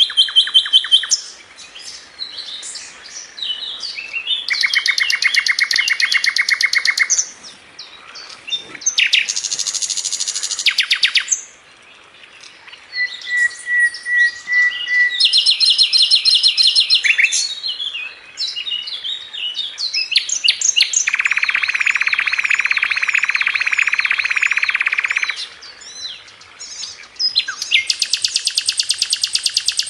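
A sikatan londo flycatcher singing: fast, tight trills of rapidly repeated notes in bursts of one to four seconds, each at a different pitch. Scattered chips fill the gaps, and a short steady whistle comes about halfway through.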